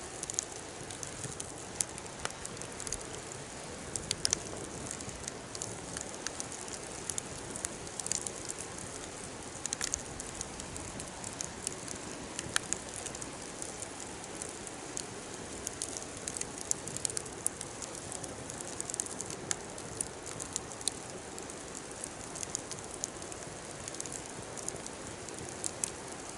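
Wood fire burning in a fire pit: a steady hiss with irregular sharp crackles and pops throughout.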